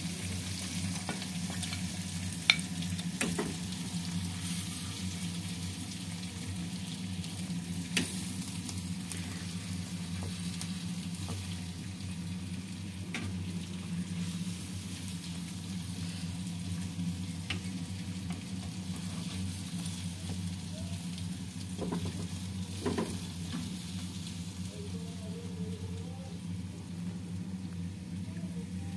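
Potato slices sizzling in oil in a wok, with a steel spoon scraping and now and then clinking against the pan as they are scooped out. A few sharp clinks stand out, the loudest about two and a half seconds in.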